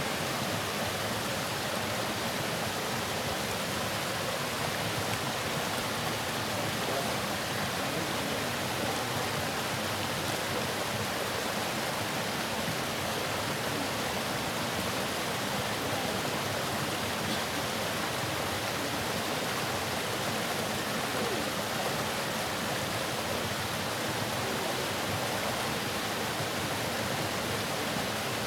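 Waterfall: water falling and splashing, a steady, even rush.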